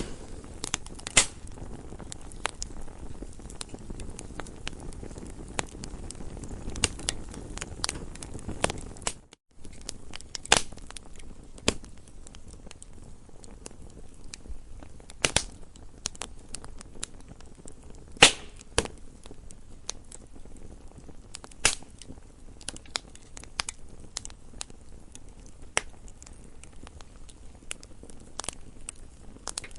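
Campfire crackling, with irregular sharp pops and snaps of burning wood, a few much louder than the rest. The sound cuts out for a moment about nine seconds in, and the low rumble under the crackle is fainter after that.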